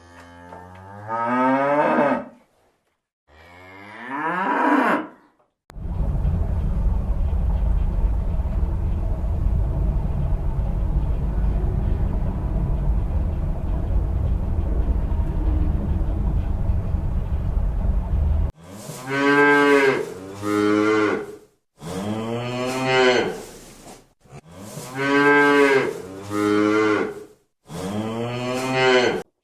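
Cattle mooing: two drawn-out calls near the start, and a run of five or six calls close together in the last third. In between is a long stretch of steady low rumbling noise.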